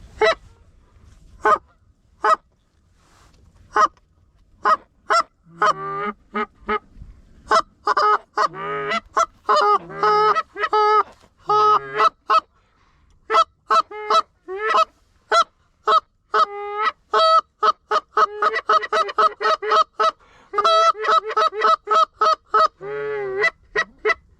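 Canada goose honks and clucks blown on hunters' goose calls, close and loud. Scattered single honks, some breaking from a low note to a high one, grow into a fast run of clucks and honks over the second half, calling to bring flared geese back in.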